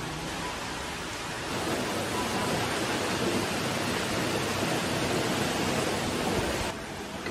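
Steady rushing noise of falling water, growing louder about a second and a half in and cutting off abruptly near the end.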